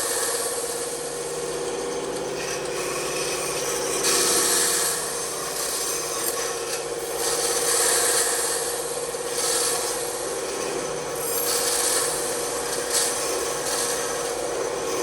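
Bandsaw running with a steady hum while its blade cuts wood in repeated surges of high rasping hiss, as a tight spot is nibbled away into sawdust to make room for turning the piece.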